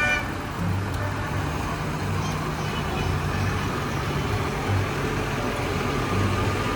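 Diesel tractor engines running as tractors drive past in a procession, a low engine throb that swells and fades over steady street noise.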